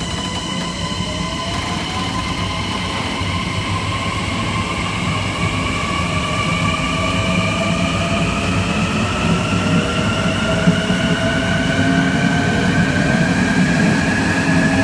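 Kawasaki M9 electric multiple unit's MELCO IGBT-VVVF inverter and AC traction motors whining under power, several tones rising steadily in pitch as the train gathers speed, over a low rumble of the running gear that grows louder.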